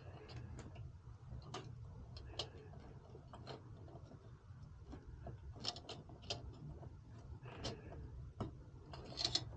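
Irregular light clicks and taps of small hardware being handled, several close together near the end, over a low steady hum.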